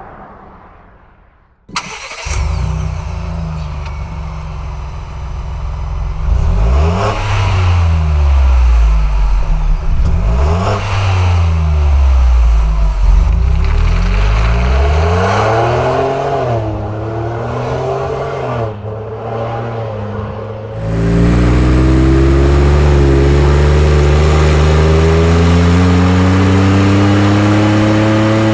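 Ford Bronco 2.7L EcoBoost twin-turbo V6 running through a Borla stainless exhaust. After a brief quiet moment the engine comes in and is revved several times, each rev rising and falling. Later it runs louder with its pitch climbing slowly, as under steady acceleration.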